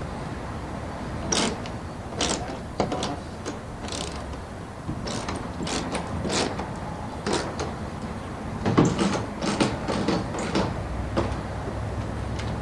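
Irregular metallic clicks and clanks of garage door opener hardware being handled and fastened, with a cluster of quicker knocks about two-thirds of the way through.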